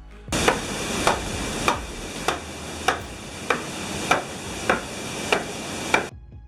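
Water-powered sawmill's reciprocating saw running through timber, with a sharp knock at each stroke, about one every 0.6 s, over a steady cutting rasp. It stops abruptly about six seconds in.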